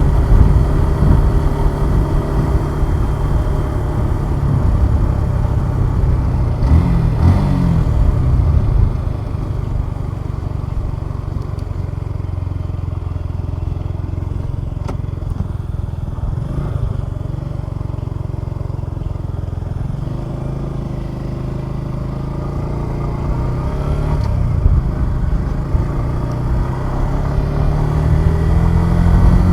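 Suzuki Gixxer 150SF's single-cylinder engine running under way, its pitch climbing briefly early on, settling softer through the middle and rising steadily again near the end as the bike accelerates, over wind and road noise.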